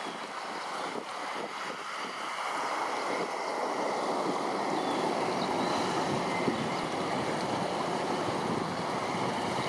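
Steady rush of flowing water, growing a little louder about three seconds in, with faint thin high tones above it.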